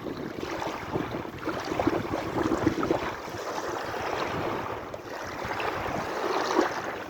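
Sea waves washing and splashing: a steady rush of water full of small splashes, swelling and easing every few seconds.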